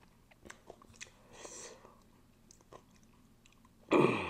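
Close-up eating sounds on a clip-on microphone: soft chewing clicks and lip smacks after a meal of spicy noodles, with a breath about a second and a half in. Near the end comes a sudden, much louder mouth sound that falls in pitch.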